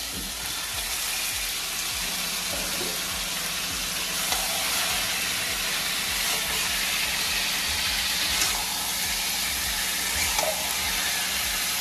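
Chicken pieces frying in spiced onion masala in a kadai, a steady sizzling hiss that grows slightly louder.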